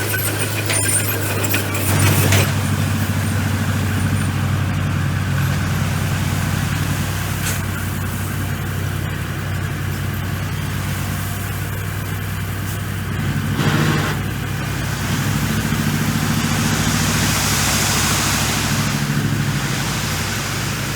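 Komatsu bulldozer's diesel engine running steadily under work, with brief louder surges about two seconds in and again around fourteen seconds.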